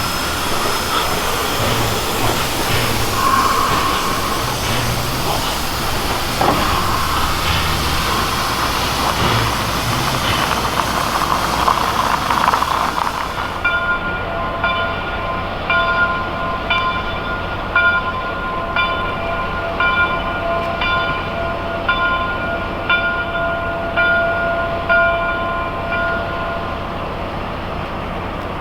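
Steam train running, a steady hiss and rattle with scattered knocks. About halfway there is an abrupt change to a locomotive bell ringing in even strokes, a little faster than once a second, which stops near the end.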